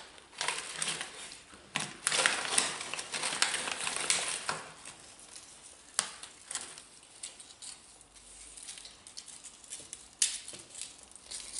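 Crunching of sea salt and cider vinegar potato crisps being chewed, dense crackling for the first four seconds or so, then quieter with a few sharp crunches around six and ten seconds in.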